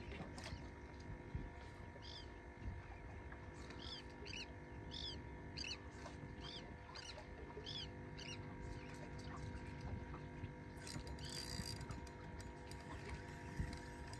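A bird calling a run of about ten short, evenly spaced chirps over roughly six seconds, over a low steady rumble. A brief hiss follows near the end.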